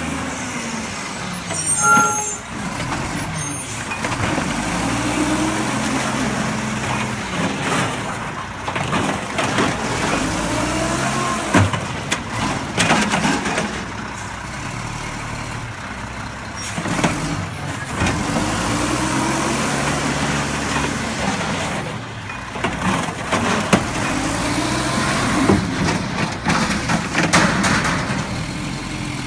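Garbage truck's diesel engine revving up and down again and again, with scattered clanks and knocks and a short pitched tone about two seconds in.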